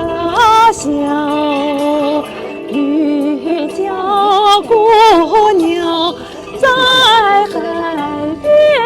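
A woman singing a melodic song with vibrato on long held notes, over musical accompaniment.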